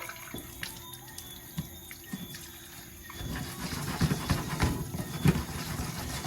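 Water splashing and sloshing in a pot of washed rice, with scattered small clicks and knocks; the water gets louder and busier about three seconds in.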